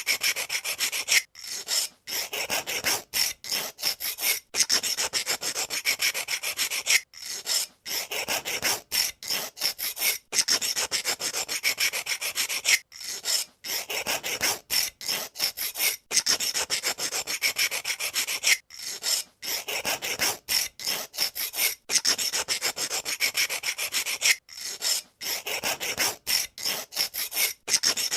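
Pencil sharpener blade shaving a wooden pencil: a dry, rasping scrape in runs of one to a few seconds, broken by brief pauses.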